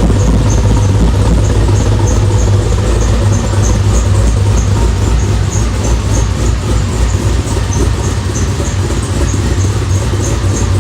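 Whipple-supercharged 6.2-litre V8 of a 2011 Chevrolet Camaro SS idling steadily through a Borla exhaust with headers: a deep, even rumble with a faint regular tick about twice a second.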